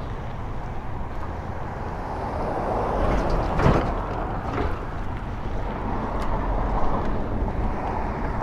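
Road traffic passing, with one vehicle swelling louder about three seconds in, over a steady low rumble.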